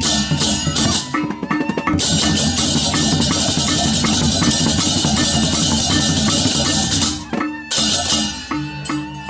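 Balinese gamelan percussion music: drums and repeated pitched metal notes, with dense clashing cymbals from about two seconds in that drop out near the end, leaving separate struck notes.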